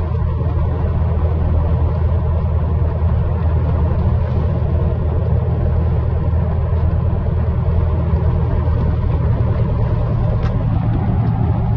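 Cessna light aircraft's piston engine and propeller running steadily, heard from inside the cockpit as a loud, unchanging drone.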